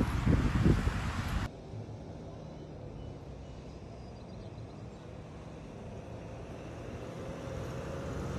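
Wind buffeting the microphone, cut off abruptly about a second and a half in, leaving a low steady rumble.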